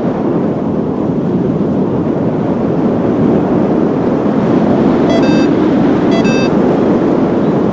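Loud, steady wind noise buffeting the microphone in flight on a paraglider in strong wind. Two short high electronic beeps come about five and six seconds in.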